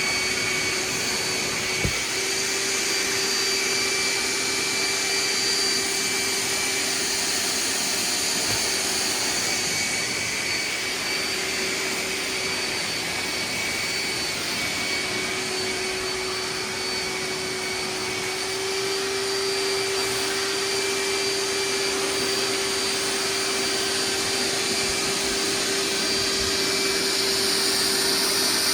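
Hoover wet/dry vac with a dual-tank system running steadily on wet pickup, drawing water out of a saturated rug: a constant motor whine over the rush of air. There is a single short click about two seconds in.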